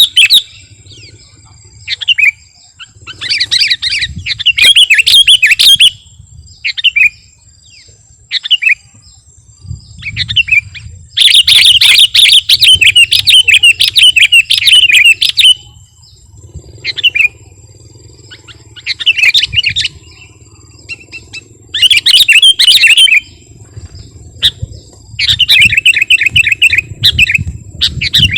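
Sooty-headed bulbul singing in bursts of rapid chattering notes with short pauses between them. The longest phrase, near the middle, lasts about four seconds.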